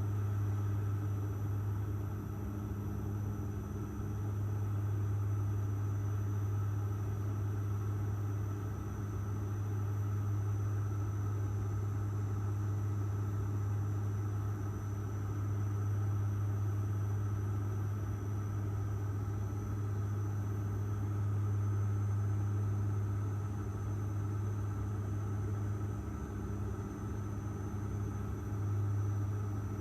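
Airliner cabin noise in flight: a steady, unbroken engine drone with a strong low hum and an even rush of air.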